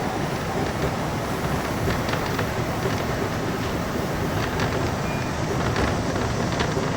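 Keihan electric commuter train running along the track: a steady rumble of wheels on rail with faint clicks, and a brief high tone about five seconds in.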